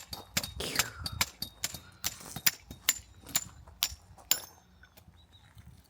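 Rapid series of sharp strikes with a metallic ring, about two to three a second, as an axe is worked into firewood to split it. The strikes stop about four seconds in.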